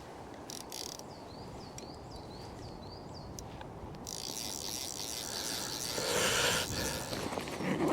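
Outdoor wind noise with a bird calling a quick run of about seven short, high, repeated notes; about four seconds in, a gust of wind rushes over the microphone, loudest about six seconds in.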